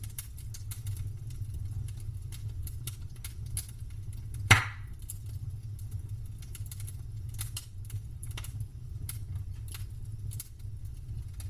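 Campfire wood crackling: irregular sharp snaps and ticks, with one much louder pop about four and a half seconds in, over a steady low rumble.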